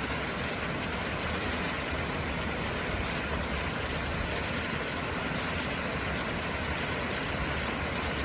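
Steady rushing water of a mountain stream: an even hiss with a low rumble, unchanging throughout.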